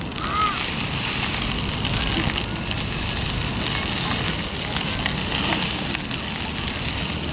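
Chicken drumsticks sizzling on a grill over a wood campfire: a steady hiss with a few faint pops.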